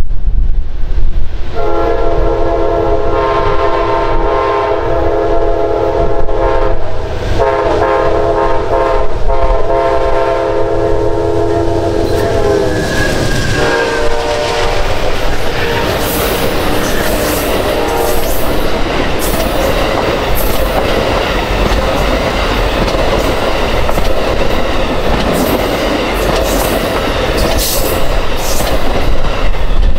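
A diesel locomotive sounds its multi-note air horn in two long blasts as the train approaches. The train then passes close by, its wheels clattering and clicking over the rail joints.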